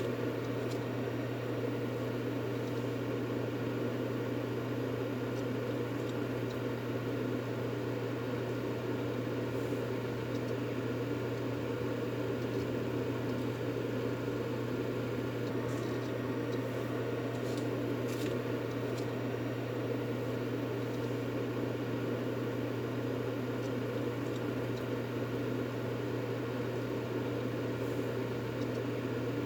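A steady, even 'white noise' track for soothing a baby to sleep: a constant low hum with a dense rushing noise over it, like a running fan or appliance, unchanging throughout.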